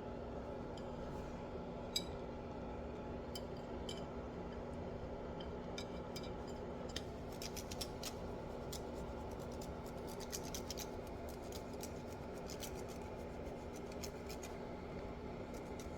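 Kitchen handling sounds: a sharp click about two seconds in, then from about halfway a quick run of small clicks and scrapes, over a steady low hum.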